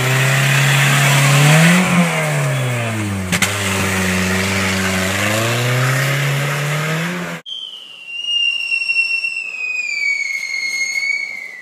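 A small hatchback's engine revving up and down as it is driven, climbing in pitch about two seconds in, dropping back, then rising again. After a sudden cut, a smoke grenade pours out smoke with a high whistle that slowly falls in pitch.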